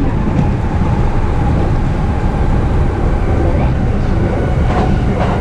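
Running noise inside a JR East E233 series electric commuter train: a steady low rumble of wheels on rail with a faint steady tone above it.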